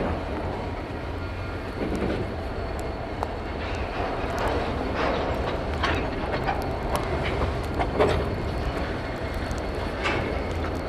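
Diesel freight train in a rail yard: a steady low rumble, with irregular clanks and squeaks from the cars through the middle stretch.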